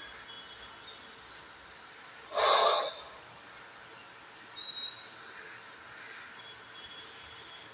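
A single short, sharp exhale or snort through the nose, about two and a half seconds in, over a steady faint background hiss with a few faint high chirps.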